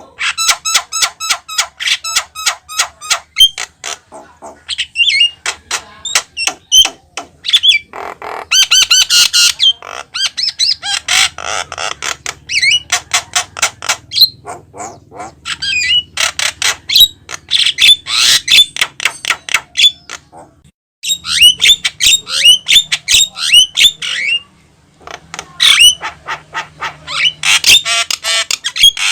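Javan myna (jalak kebo) singing vigorously: long runs of rapid chattering notes, clicks and whistles, broken by short pauses.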